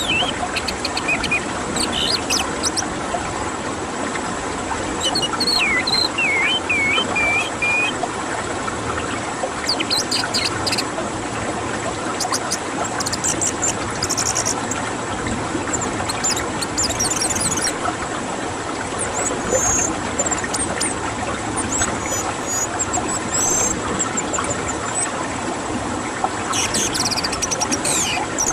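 Orange-headed thrush song, played to coax a silent bird into singing: short whistled phrases, squeaky glides and trills that come every few seconds over a constant dense noise.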